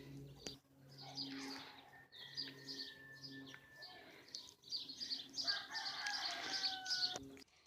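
Birds chirping in quick, repeated short calls that grow busier and louder over the last couple of seconds, over a steady low hum that cuts off near the end.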